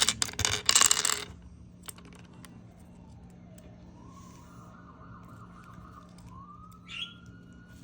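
About a second of loud scratchy clattering, then a faint tone that slowly rises and falls like a distant siren.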